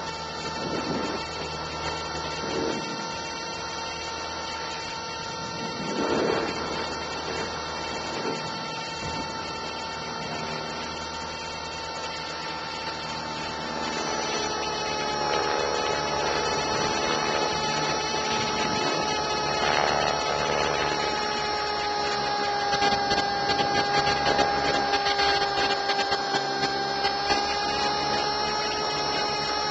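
Align T-Rex 450 SE V2 electric RC helicopter in flight, heard from a camera in its canopy: the motor and gears whine steadily over rotor noise. The sound grows a little louder about halfway through, and the whine dips slightly in pitch later on.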